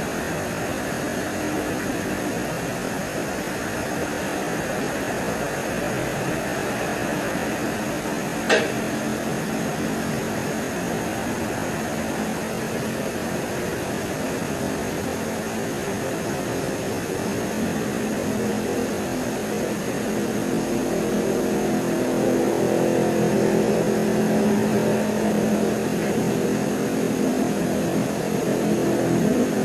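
Night forest ambience: a steady hiss with a constant high, thin insect trill, one sharp click about a third of the way in, and from about two-thirds through a low engine drone that grows louder.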